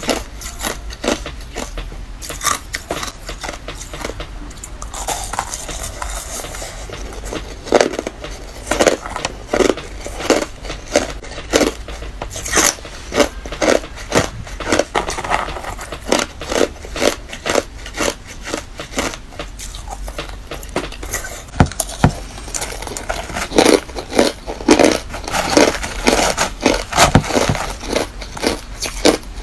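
Close-up biting and chewing of hard refrozen crushed ice: a dense, irregular run of sharp crunches and cracks from the mouth, with a low steady hum underneath.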